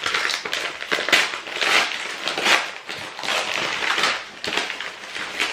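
Gift wrapping being torn and crinkled open by hand: a run of irregular crackling and ripping.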